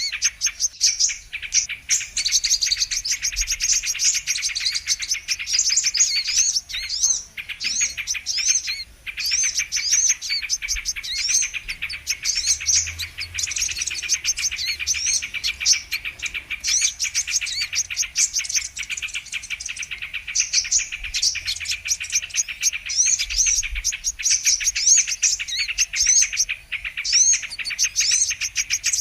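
Brown-throated sunbirds (kolibri kelapa) calling in a continuous, dense stream of rapid, high-pitched chirps and twitters, overlapping with no pauses: a looped lure recording used to attract the species.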